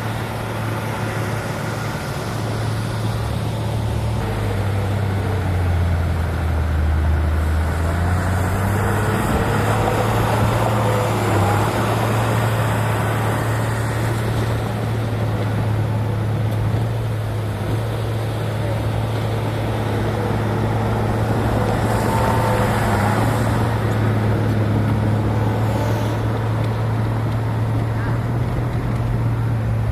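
Heavy diesel engine of earthmoving machinery running steadily under load. Its low hum drops in pitch a few seconds in, then climbs back and holds.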